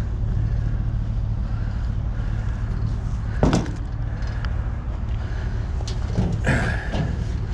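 A vehicle engine running steadily, with a sharp bang about three and a half seconds in and a longer rattling clatter near the end.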